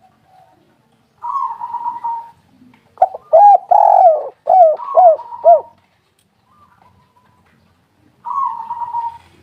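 Spotted dove cooing. A rough, burring note comes first, then a run of about six short hooting coos with a longer one in the middle. Another burring note follows near the end.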